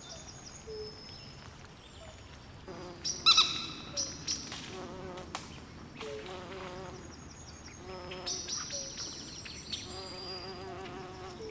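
Swamp wildlife at night calling: short wavering buzzy calls recur again and again, high chirps and whistles sound above them, and a single loud, sharp call rings out about three seconds in.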